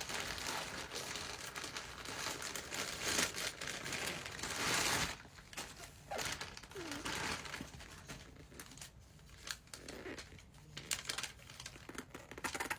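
A gift package being opened by hand, its wrapping crinkling and tearing. The rustling is dense for about the first five seconds, then thins to lighter, scattered rustles and clicks.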